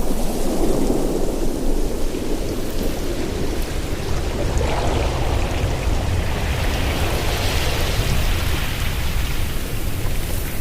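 Ocean waves washing onto a shore: a continuous low rumble of surf with a hiss that swells about two-thirds of the way through.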